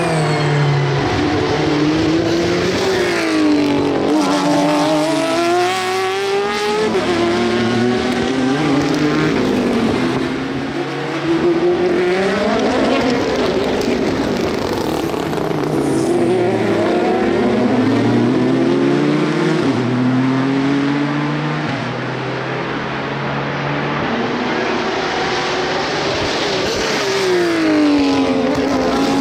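Endurance race cars passing one after another and overlapping, engines changing gear as they brake into and accelerate out of the corner. Each car's pitch sweeps up and then down as it goes by.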